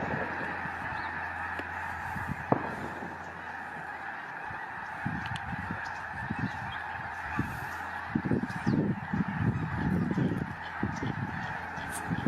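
A huge flock of migrating geese calling, a dense continuous din of overlapping honks that grows louder and closer about halfway through. A low steady hum underlies the first few seconds.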